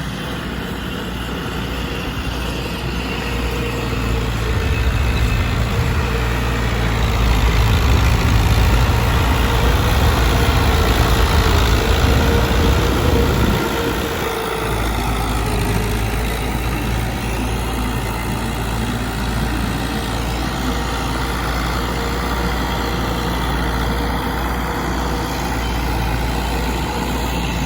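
Diesel tractor engine running steadily. It grows louder over the first several seconds, then eases off to a lower steady level about fourteen seconds in.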